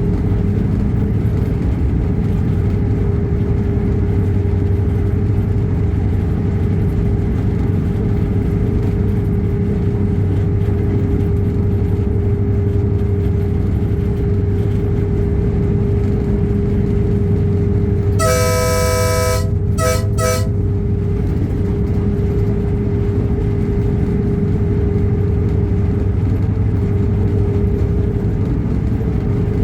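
Train running steadily with a constant drone. About two-thirds of the way through, its horn sounds one long blast and then two short toots.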